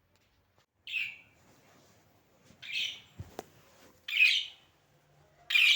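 Pet budgerigar giving four harsh, squawky calls about a second and a half apart, with a single sharp click about halfway through.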